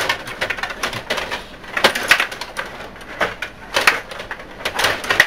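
Table hockey game in play: irregular clacks and knocks of the rods, plastic players and puck striking against each other and the board.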